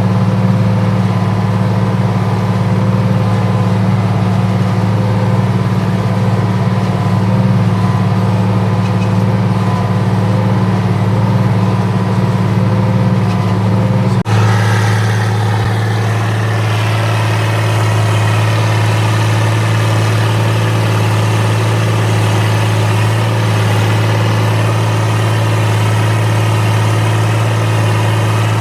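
Fiat 1300 DT Super tractor's six-cylinder diesel engine running steadily under load while pulling a ripper. About halfway through, the engine note changes abruptly and then runs steadily again.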